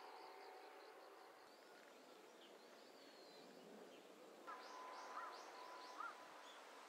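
Faint outdoor ambience with birds calling, a few short chirps clustered past the middle.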